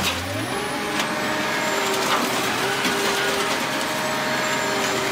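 Heavy machinery running steadily, with a few sharp knocks or clanks about a second apart.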